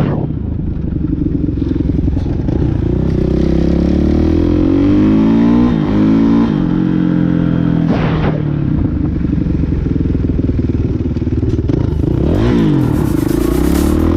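Dirt bike engine running at speed, its pitch repeatedly dropping and climbing again as the throttle is eased off and opened back up.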